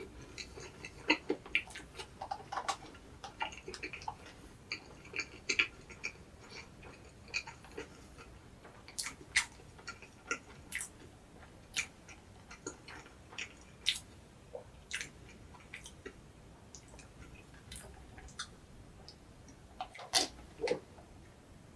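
Close-miked chewing of an Egg Drop toast, a soft egg sandwich: scattered, irregular mouth clicks and smacks, with a louder cluster near the end.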